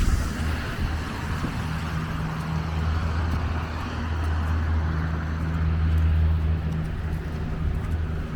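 Street traffic: a motor vehicle's engine running close by as a steady low hum, swelling about six seconds in.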